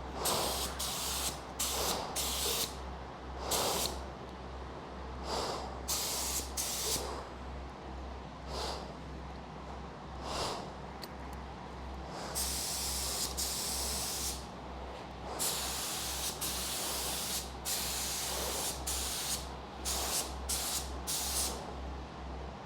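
Air-powered paint spray gun hissing in repeated short passes, with two longer, steadier passes in the middle, as it lays epoxy primer on a truck frame.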